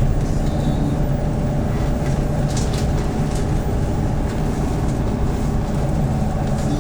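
Hyundai New Super Aero City CNG city bus engine running steadily. It is a low hum whose pitch holds level, with a few faint clicks about three seconds in.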